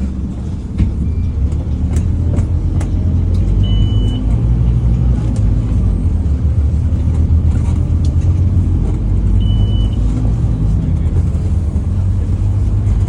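Scania N230UD Omnicity bus's diesel engine droning steadily under way, heard from inside the bus, with occasional rattling clicks. Two short high beeps sound, about four and nine and a half seconds in.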